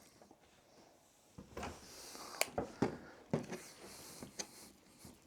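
A putty spatula scraping and tapping as it mixes two-part body filler with drops of hardener on a board: a string of sharp clicks and scrapes starting about a second and a half in.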